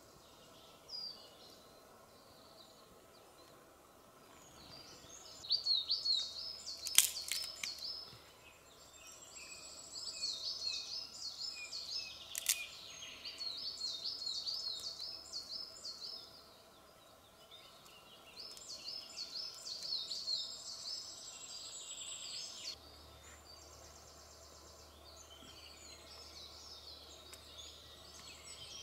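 A songbird singing phrases of quick, repeated high notes, pausing between phrases. Two sharp clicks stand out about a third and halfway through.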